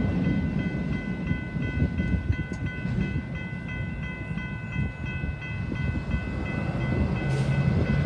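Freight train rolling past out of sight, a steady low rumble, with a thin high whine of several steady tones over it.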